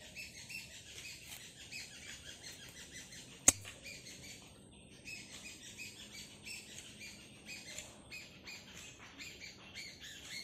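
Small birds chirping in quick, continuous short notes, over a thin steady high whine that stops about eight seconds in. A single sharp click about three and a half seconds in is the loudest sound.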